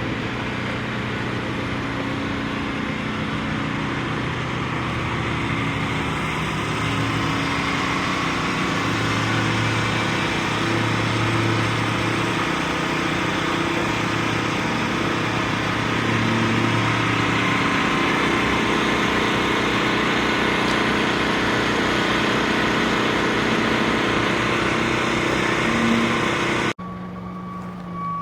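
Engine of heavy debris-clearing machinery running steadily, its note shifting up and down as it works. Near the end the sound cuts abruptly to a quieter scene with a reversing beeper starting.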